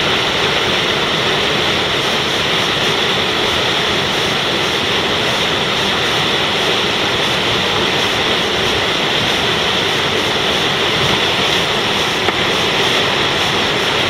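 Steady rush of whitewater from a creek, a loud even roar with no let-up, cutting in and out abruptly.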